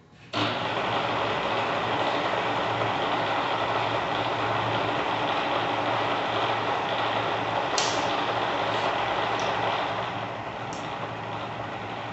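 Bridgeport Series I vertical mill's 1.5 hp spindle motor switched on about half a second in, then running steadily with a whirring hiss and a low hum. A few faint clicks come near the end, and the sound eases slightly about ten seconds in.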